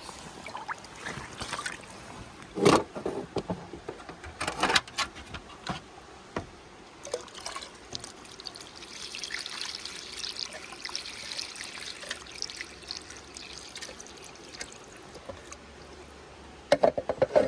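Water being handled: a few sharp splashes, then a steady trickle of pouring water through the middle, and a quick run of splashes near the end.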